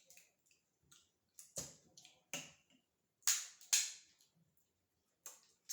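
Sharp clicks and cracks, about half a dozen spaced irregularly, as a lobster shell is hacked and broken apart, the loudest two a little past the middle.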